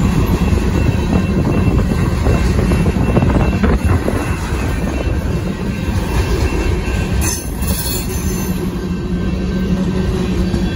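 Union Pacific grain train's covered hopper cars rolling past at close range: a steady, heavy rumble of steel wheels on the rails.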